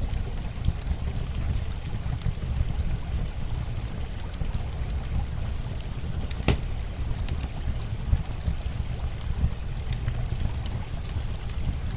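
Campfire crackling with scattered sharp pops, one louder pop about six and a half seconds in, over a steady wash of running water.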